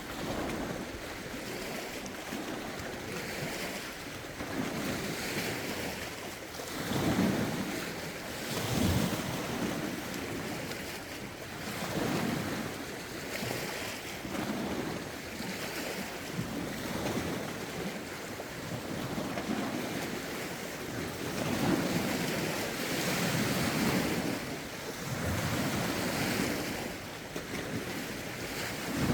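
Lake waves washing against the shore, a swell every two seconds or so, under steady wind with some wind noise on the microphone.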